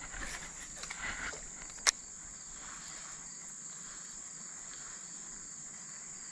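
Steady high-pitched chorus of insects such as crickets, with a single sharp click about two seconds in.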